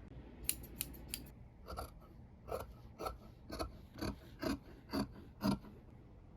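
Fabric shears cutting cloth: a few light clicks, then a run of about eight separate snips, roughly two a second.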